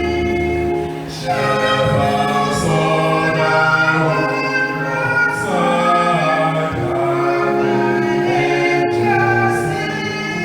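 Choir singing a carol in long held chords, the notes changing phrase by phrase.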